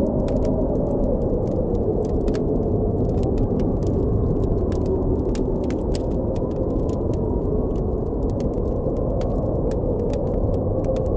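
Strong blizzard wind blowing steadily with a low rumble and a faint shifting whistle, while a campfire crackles with frequent irregular sharp pops over it.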